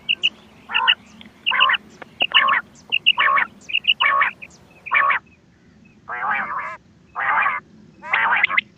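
Recorded quail calls from a hunting call tape. Quick high twin and triple notes alternate with harsher rasping calls, roughly one a second, with a brief pause a little past halfway.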